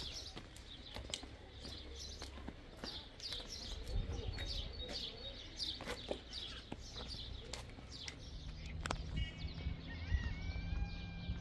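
Small birds chirping in quick, repeated short falling notes, with a few light clicks between them. About nine seconds in, a longer, steady pitched call takes over.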